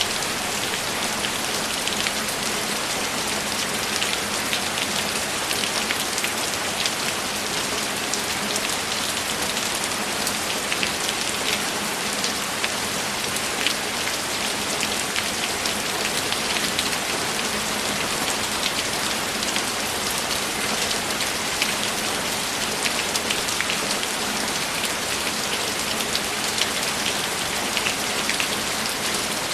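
Steady rainfall, a dense even hiss with many small drop ticks, unbroken throughout.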